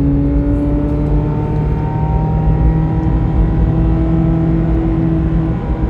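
Chevrolet Corvette C8 Z06's flat-plane-crank V8 running steadily while driving under light load. Its note climbs slowly, then drops near the end.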